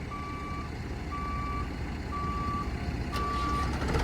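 A vehicle's reversing alarm beeping about once a second, each beep a single steady tone, over the low running of a diesel engine. A sharp click about three seconds in.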